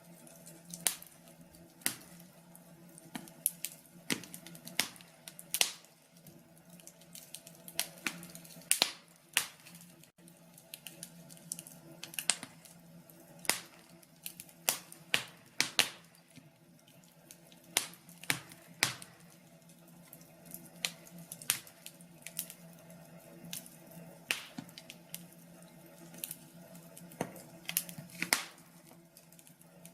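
Wood fire in a fireplace crackling, with sharp irregular pops and snaps coming several a second at times, then thinning out.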